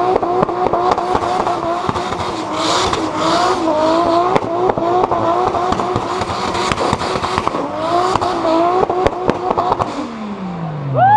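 Turbocharged 2JZ straight-six engine, tuned to about 600 hp, held at the rev limiter during donuts. Its pitch bounces up and down again and again, with sharp crackles, over the hiss of spinning tyres. Near the end the revs drop away.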